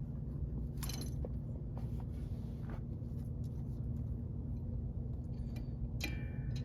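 A few scattered metal clinks of hand tools over a steady low hum.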